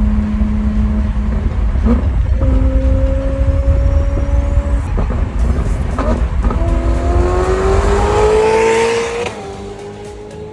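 Loud supercar exhaust with a deep rumble. Its pitch holds, steps up, then climbs steadily as the car accelerates, before falling away sharply near the end.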